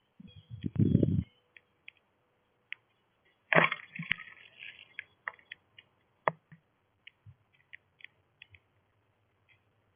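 Irregular sharp clicks and taps, with a few dull thumps about a second in and one louder crack a little after three and a half seconds.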